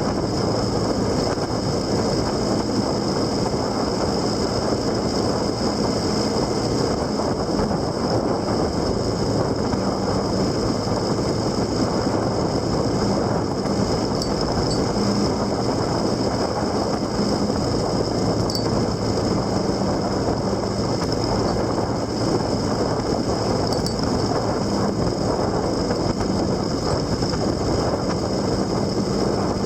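Steady wind and road noise from riding along a road, with a low hum that fades in and out.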